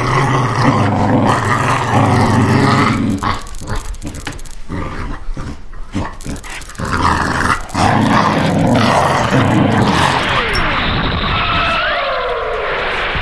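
Animal growling sounds in loud bouts, with a stretch of short knocks between them and falling sweeps near the end.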